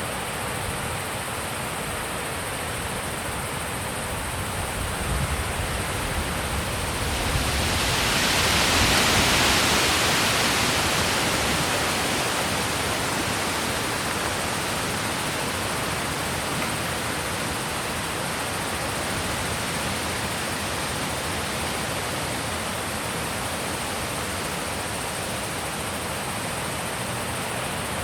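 Wind blowing in a steady rush, swelling into a stronger gust about eight seconds in, then easing back to a steady blow.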